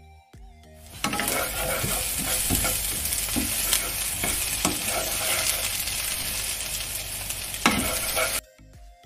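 Green chilies and curry leaves sizzling in hot ghee in a pan while a spatula stirs and scrapes through them, with a sharp knock of the spatula near the end. The sizzling starts suddenly about a second in and cuts off suddenly near the end, with soft background music either side.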